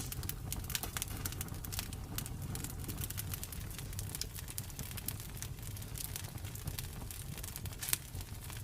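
Campfire burning: wood crackling in quick, irregular snaps over a steady low rumble of flame, with a louder pop right at the start and another near the end.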